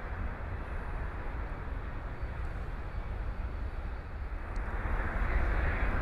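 Boeing 737-800's CFM56-7B turbofan engines heard as a steady rushing rumble, growing louder about five seconds in.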